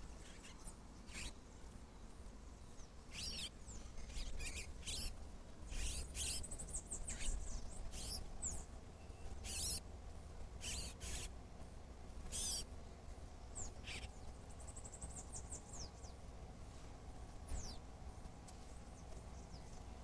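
Birds calling: short, sharp, high thin calls scattered throughout, with a quick run of rapid high notes about seven seconds in and another around fifteen seconds, over a steady low rumble.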